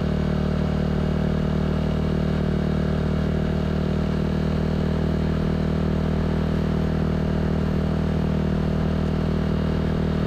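Yamaha Aerox 155 scooter's single-cylinder engine running through a Villan SR1 aftermarket exhaust, holding a steady, even engine speed on the move.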